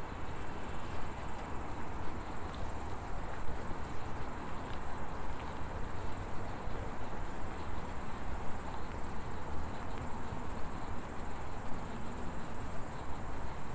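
Steady outdoor ambience: a low rumble under a faint, steady, high insect chirring, like crickets.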